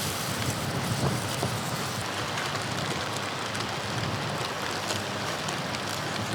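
Strong blizzard wind blowing steadily: a dense, even hiss of wind and blown snow.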